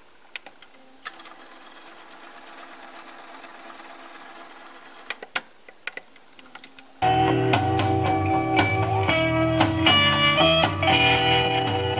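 Sony TC-FX210 cassette deck being worked through its transport: a faint steady whir of the tape winding fast, with a few sharp clicks of the buttons and mechanism. About seven seconds in, loud guitar music starts playing back from the cassette.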